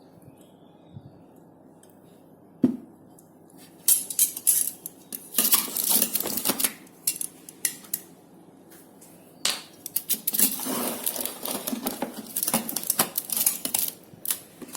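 Kitchen utensils clinking and scraping against cookware in bursts, with one sharp knock a few seconds in.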